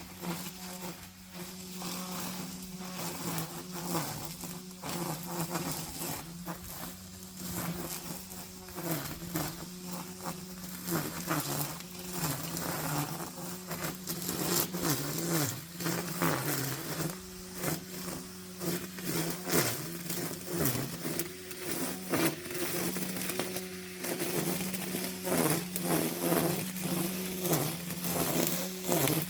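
Brushcutter engine running at high speed with a steady buzz, its pitch dipping and recovering again and again as it cuts through grass.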